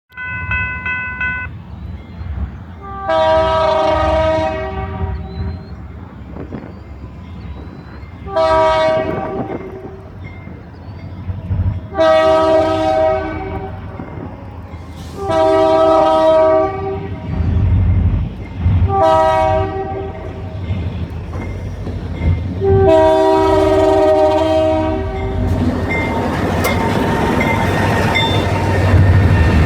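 EMD SD40-2 diesel locomotives' air horn sounding six blasts over the low rumble of the engines, the last four in the long-long-short-long grade-crossing pattern. Near the end the rumble and the wheel noise grow louder as the train comes past.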